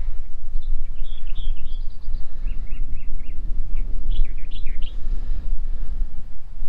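Small birds chirping in quick runs of short calls for the first five seconds or so, over a loud, uneven low rumble.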